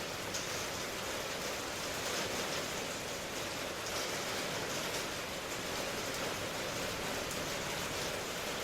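Steady rain: an even hiss that does not let up, with faint patters of single drops now and then.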